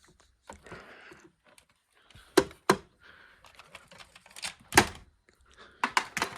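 A run of sharp clicks and knocks from something hard being handled, with short rustles between them; the loudest knocks come in a pair about two and a half seconds in and again near five seconds.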